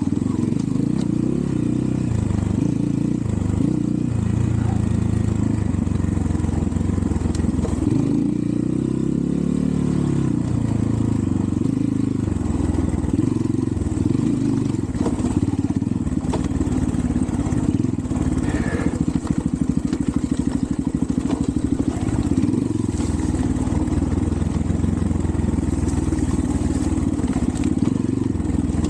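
Xpro Templar X 250cc dirt bike's single-cylinder four-stroke engine running at low speed on a rough climb, its note rising and falling with the throttle.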